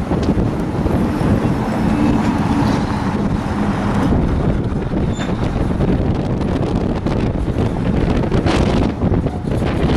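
Steady rumble of a cut of empty open-top freight cars rolling slowly through a rail yard during switching, with heavy wind buffeting the microphone.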